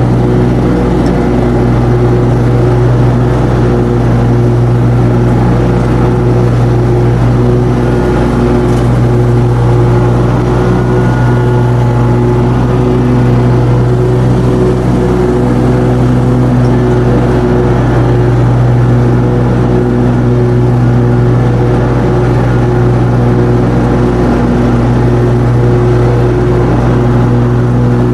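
An engine running steadily at a constant speed, a loud even hum with no rises or drops.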